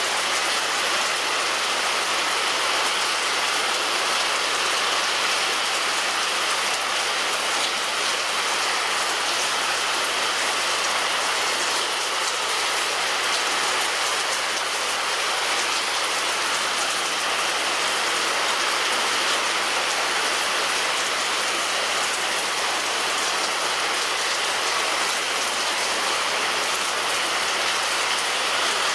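Heavy rain falling steadily on a roof: a dense, even patter of drops.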